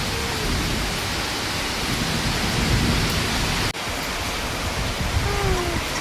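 Heavy rain and hail pouring down in a thunderstorm: a steady, loud hiss with a low, uneven rumble underneath. The sound drops out for an instant about two-thirds of the way through.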